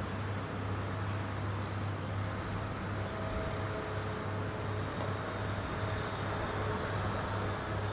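Rice combine harvester running steadily: a constant low engine hum under mechanical noise, with a faint steady whine over it.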